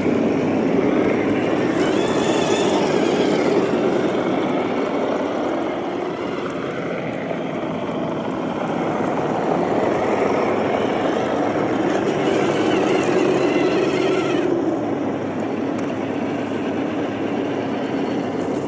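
Electric motors and gearboxes of several RC trail crawler trucks whining as they crawl over rock, the whine rising and falling in pitch with the throttle.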